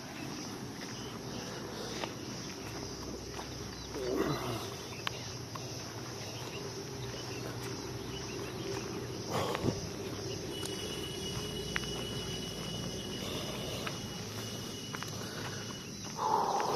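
Outdoor countryside ambience with three short animal calls, the first falling in pitch. A thin steady high tone runs for about five seconds in the second half.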